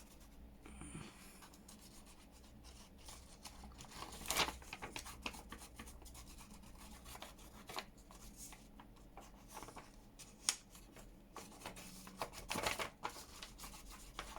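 Paper and card being handled and rubbed on a craft table: soft scattered rustles and light taps, a few sharper ones near the middle and towards the end.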